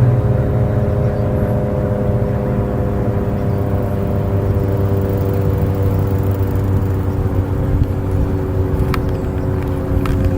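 A motor's steady drone with several held tones, sinking slowly in pitch.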